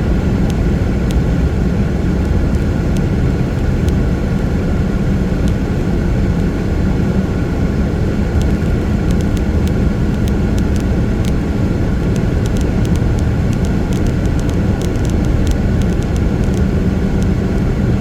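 Steady low road rumble of a car driving on a wet freeway, with scattered light ticks in the second half.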